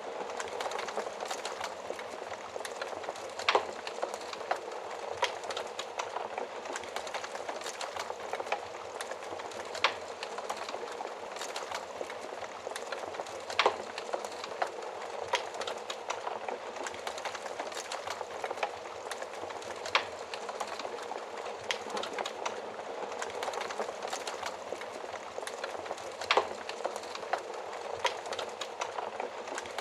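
Wood fire burning in a stove oven: a steady hiss of flames with frequent small crackles and a few louder pops, about one every several seconds.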